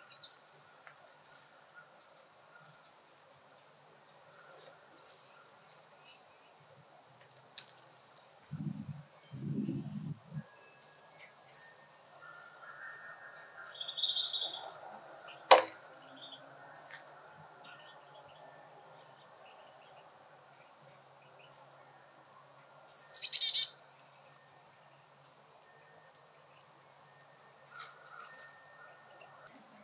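A small bird chirping over and over, short very high-pitched chirps about every second, one falling call among them. A couple of low thumps about nine seconds in and a single sharp click midway.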